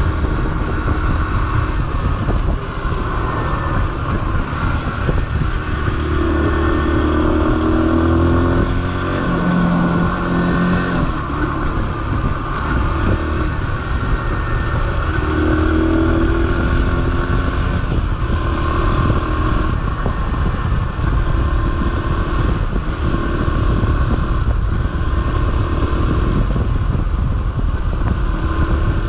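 Yamaha XTZ125's single-cylinder four-stroke engine running while riding, under heavy wind noise on the microphone. The engine pitch rises and falls a few times.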